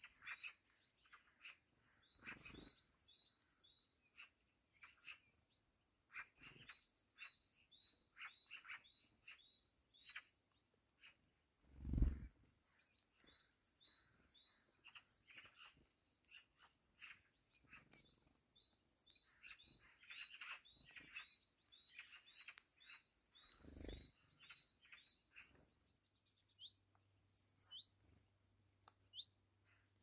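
Faint outdoor birdsong: many short, quick chirps from small birds, repeated throughout, with a few dull thumps, the loudest about twelve seconds in.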